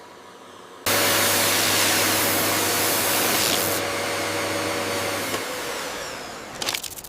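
An electric air tool switches on abruptly about a second in and runs with loud rushing air over a steady motor hum, then cuts back and dies away after about five seconds, followed by a few sharp clicks.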